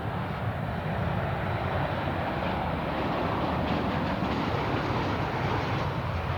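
Jet airliner engines heard at an airport: a steady rushing noise that grows louder through the middle and eases near the end.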